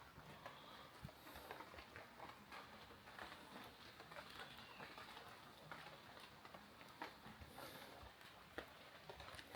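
Faint footsteps on a woodland path: irregular soft clicks and scuffs, with a brief bird chirp midway.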